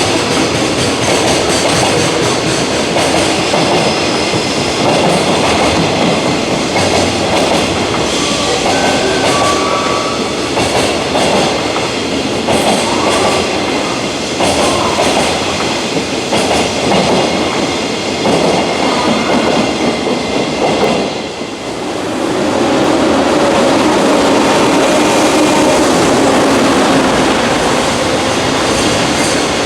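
A JR Freight container train running past on the rails, its wagons' wheels rolling and clattering steadily. The level dips briefly about two-thirds of the way through, then the train noise carries on.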